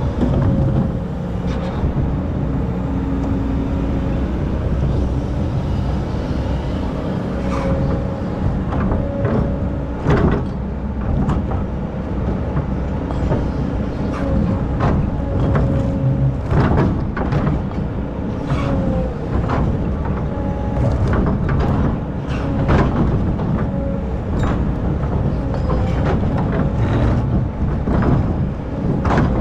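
Excavator's diesel engine running steadily, with a wavering pitched tone over the low drone and frequent sharp knocks and clanks throughout.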